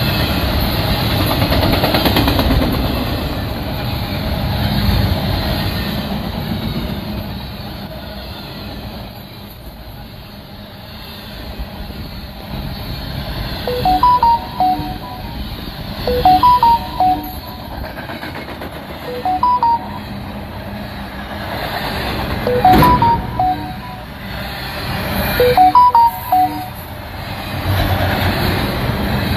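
Double-stack container cars of a Union Pacific intermodal train rolling steadily past, wheels running on the rails with a rising and falling rumble. From about halfway through, clusters of short high chirping notes come every few seconds, and there is one sharp knock about three-quarters of the way in.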